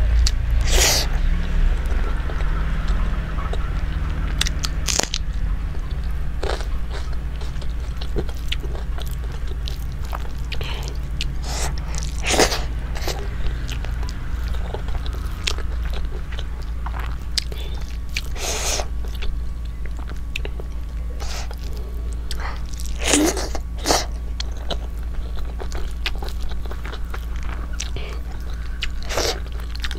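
Close-miked chewing of rice and chicken curry eaten by hand, with scattered sharp mouth clicks at irregular intervals. A steady low hum runs underneath.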